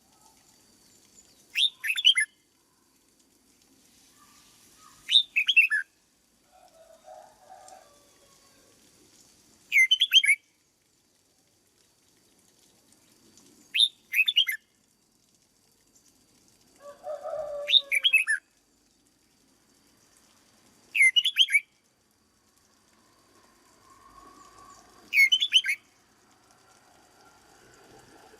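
Red-whiskered bulbul singing a short, quick phrase of whistled notes, repeated about every four seconds, seven times.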